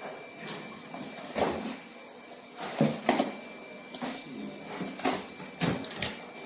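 A series of irregular knocks and clatters, like hard objects being handled, set down or fitted, over a faint steady background with thin high tones; the loudest knocks come in a cluster about three seconds in.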